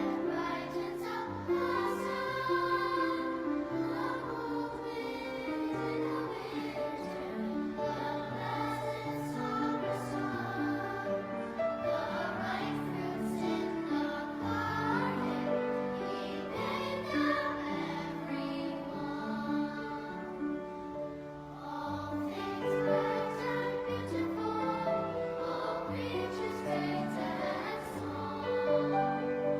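A choir singing a hymn with instrumental accompaniment.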